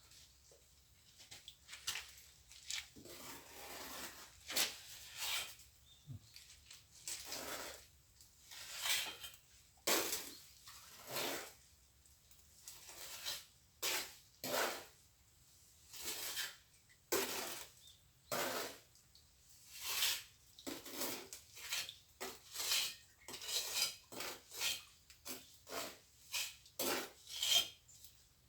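Steel plastering trowel scraping and spreading cement mortar on a wall, in a long series of short, irregular strokes about one or two a second.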